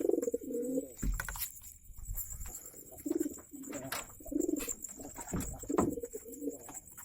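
Domestic pigeons cooing, repeated low coos about once a second, with a few sharp knocks and thuds in between.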